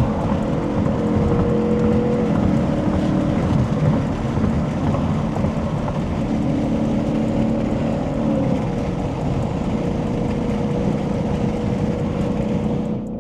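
Ford Mustang GT (S550) V8 engine and road noise at a steady freeway cruise: a dense rumble with a steady drone whose pitch steps a few times.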